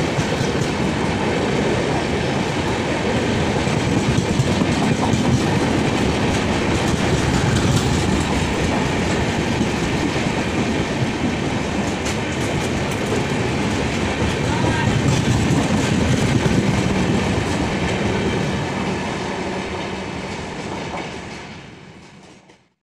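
Passenger coaches of an express train passing at speed, the wheels rumbling and clattering over the track steadily. The sound dies away and fades out near the end as the last coach goes by.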